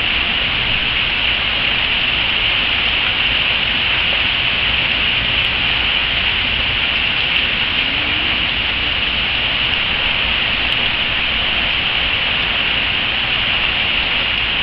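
Heavy rain falling steadily, a loud, even hiss with no letup.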